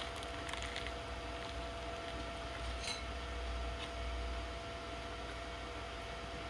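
Quiet room with a steady low electrical hum and a few faint, soft clicks.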